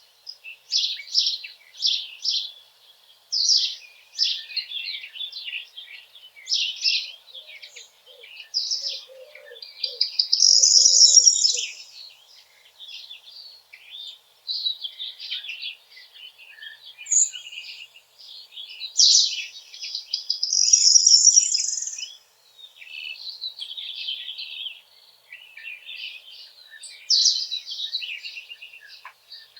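Wild songbirds chirping and singing: a busy run of short, high notes, with two louder, longer phrases about a third and two-thirds of the way through.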